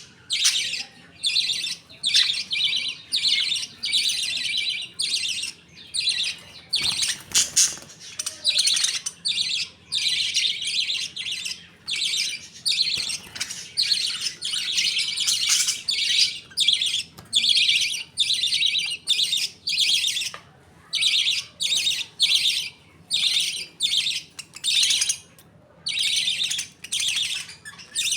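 A flock of budgerigars chattering and chirping continuously, in quick overlapping bursts with short pauses between them.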